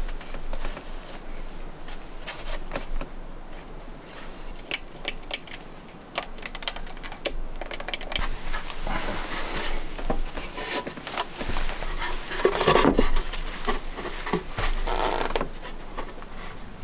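Scattered sharp clicks and knocks with bursts of scraping or rustling, the loudest about thirteen seconds in: handwork sounds.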